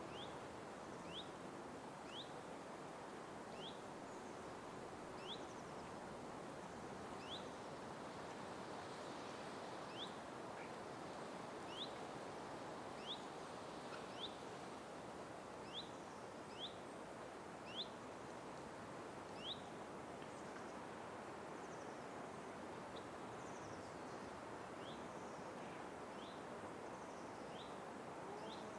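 Night forest ambience: a steady, soft background hiss with a single short, rising, high chirp call repeated about once a second. The chirps grow fainter in the last third, while fainter, higher chirps continue above them.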